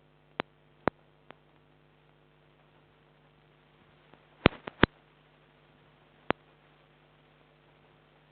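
Low steady electrical hum with scattered sharp clicks: a few single ticks, a quick cluster of three a little after halfway, and one more later. No train is heard.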